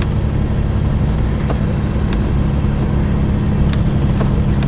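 Steady low rumble of a car's engine and tyres heard from inside the cabin while driving on a snow-covered road, with a couple of faint clicks.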